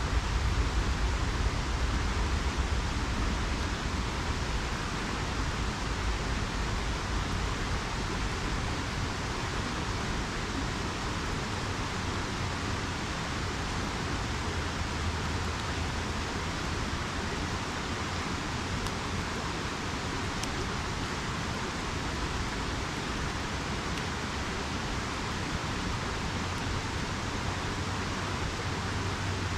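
Steady rushing of a flowing river, with a couple of faint crackles from a campfire about two-thirds of the way through.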